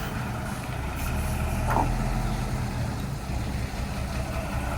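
Heavy truck engines idling, a steady low drone, with one brief high chirp just under two seconds in.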